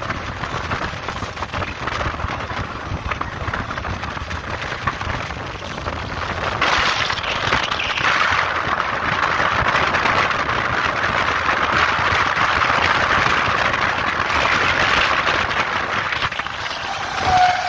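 Moving local train heard from its open door: steady rumble and rush of wheels on rail and wind, with fine clatter, growing louder about six seconds in. Near the end a train horn starts to sound.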